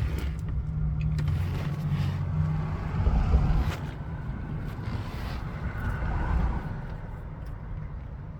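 Steady low rumble of a motor vehicle running, louder for a moment about three seconds in, with a few faint clicks.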